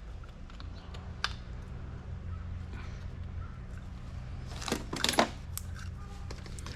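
Light clicks and clinks of small metal tools and bits being handled, with a brief cluster of louder rattling clinks about five seconds in, over a low steady hum.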